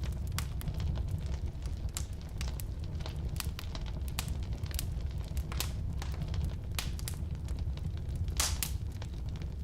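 Firewood burning in a fireplace: a steady low rumble of flame with irregular sharp crackles and pops, a louder pop near the end.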